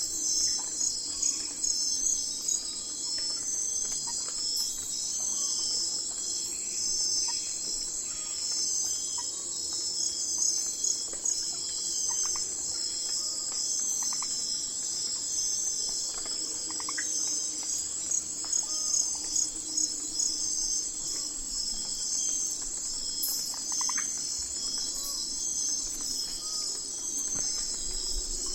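A night chorus of crickets and other insects trilling steadily at a high pitch, dense and pulsing, with scattered faint short chirps below it.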